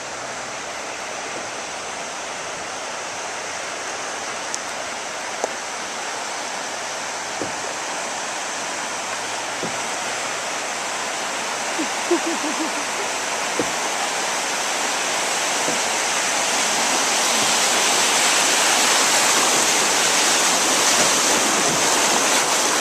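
River rapids rushing, growing steadily louder, with a few faint knocks over the top.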